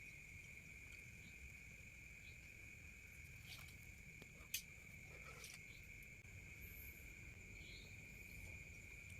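Faint, steady high-pitched chirring of night insects, with a single sharp click about halfway through.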